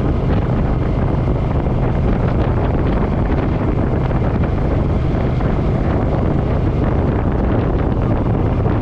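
Wind buffeting a motorcycle-mounted camera microphone at riding speed, over the steady running of a Suzuki M50 cruiser's V-twin engine.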